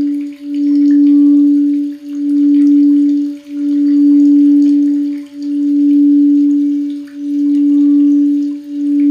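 A singing bowl holds one steady, pure low-mid tone with a faint higher overtone. The tone swells and dips deeply every one and a half to two seconds, a slow regular pulsing.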